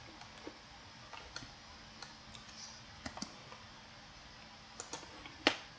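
Computer mouse clicking, a few scattered single and double clicks, the loudest one near the end.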